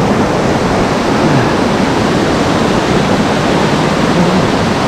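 Mountain stream rushing steadily over cascades in a gorge, a continuous loud roar of water.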